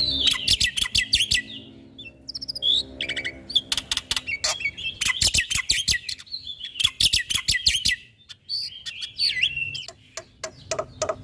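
Black-winged starling (jalak putih) singing a varied, loud song: fast runs of rattling clicks and harsh chatter mixed with short whistled notes, pausing briefly now and then.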